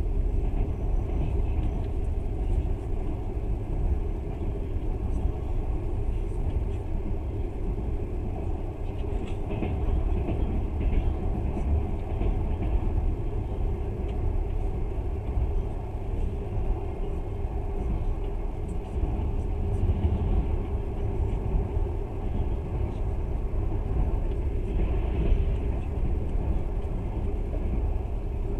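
Steady low rumble of a moving passenger train, heard from inside the carriage as its wheels run along the rails.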